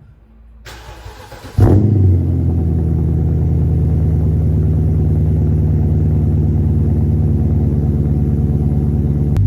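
Cold start of a BMW 550i E60's 4.8-litre N62 V8, heard at the exhaust. The starter cranks for about a second, the engine catches with a brief flare of revs, then settles into a steady idle.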